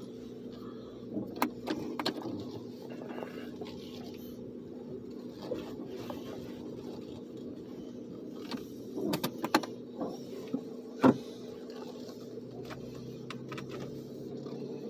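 Car engine running steadily, with a few sharp clicks and knocks scattered through, the loudest about eleven seconds in.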